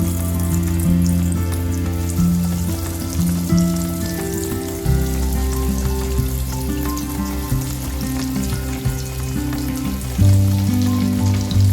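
Breadcrumb-coated bread sticks sizzling as they deep fry in hot oil, a steady crackling hiss, under background music with held bass notes.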